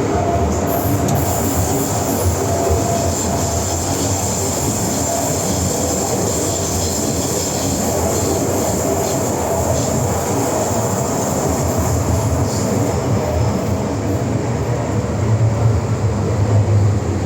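MTR M-Train running along the track with a steady rumble of wheels and running gear. A thin, high-pitched wheel squeal rides over it from about a second in until about thirteen seconds in.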